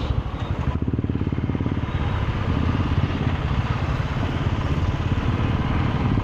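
Motorcycle engine running at low revs, a fast, even stream of firing pulses.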